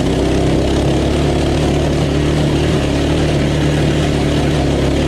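Small engine of a cheap Walmart pit bike running steadily at wide-open throttle on a top-speed run.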